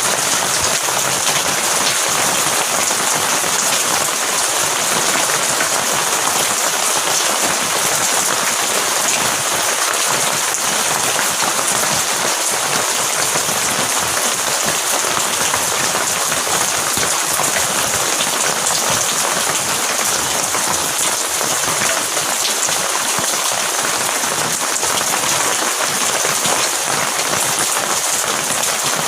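Heavy rain falling steadily, a dense, even patter with no breaks or thunderclaps.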